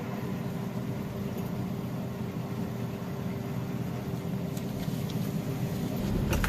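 Car engine running steadily, with a short click near the end.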